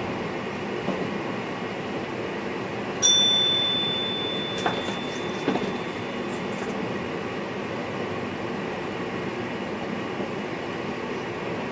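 Running noise in the driver's cab of an NS VIRM double-deck electric train: a steady rumble of wheels on the rails with a few sharp clicks. About three seconds in, a single bell-like chime rings out loudly and fades away over a few seconds.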